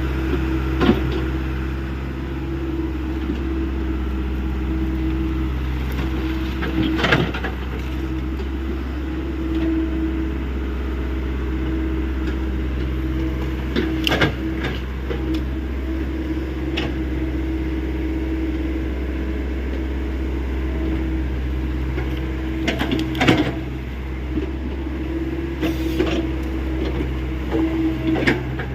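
Hyundai 85 excavator's diesel engine running at a steady pitch while it works, with a few short clanks and knocks from the digging.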